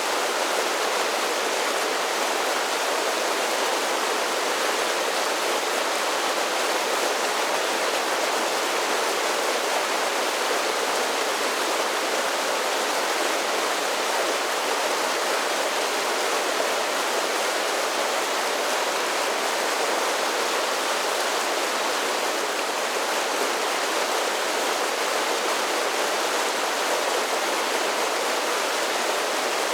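Mountain creek water spilling over a series of small falls and cascades, a steady, even rush and splash with no breaks.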